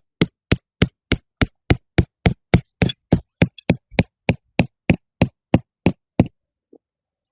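Peg mallet hammering a tent stake into the ground: about twenty quick, evenly spaced strikes, roughly three a second, stopping about six seconds in.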